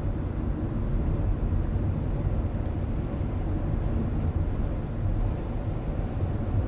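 Steady low rumble of a car driving along a road: tyre and engine noise, even and unchanging.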